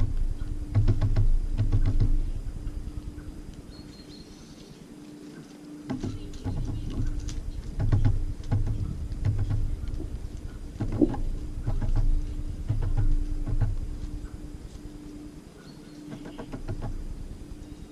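Small birds, tits, pecking and hopping at a bird feeder close to the microphone: irregular clusters of taps and knocks, with quieter lulls between them.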